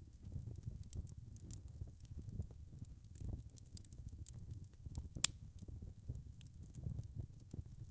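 Wood fire crackling in a fireplace: a low rumble of flames under a scatter of small pops, with one sharper pop a little past halfway.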